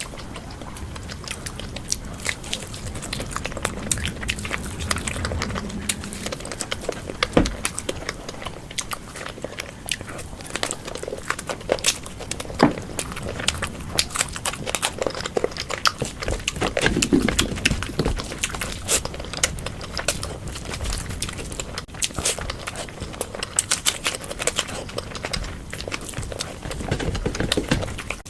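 Close-miked eating sounds: a person chewing and biting food, with a steady run of wet clicks and crackles.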